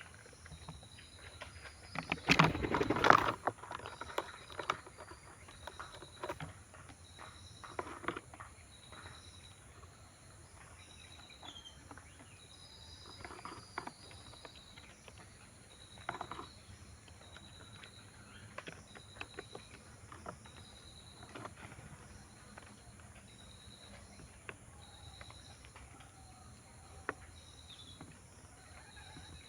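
An insect chirps in regular pulses, about one every second and a half. Over it come scattered clicks and taps from birds pecking at food, with one loud clattering rustle about two to three seconds in.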